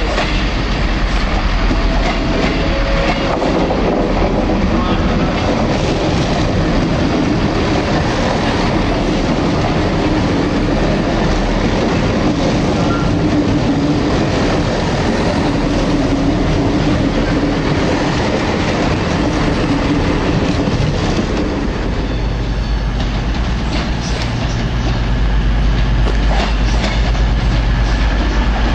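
Class 158 diesel multiple unit running past along the platform, with its underfloor diesel engine and wheels clicking over the rail joints. Over the last several seconds a Voyager diesel unit approaches, and a steady low engine note joins in and grows louder.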